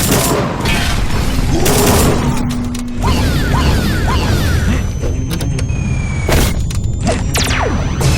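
Cartoon action sound effects: repeated booms and heavy impact thuds with whooshes, over loud background music.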